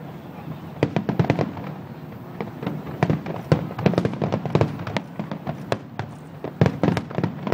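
Aerial firework shells bursting in a fast, irregular run of sharp bangs and cracks, several coming in quick clusters.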